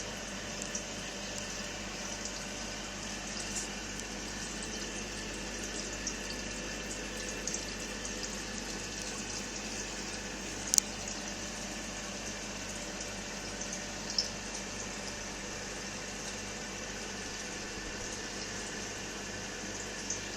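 Fish tank water circulating steadily: bubbling and trickling with a low hum. A couple of sharp clicks come about 11 and 14 seconds in.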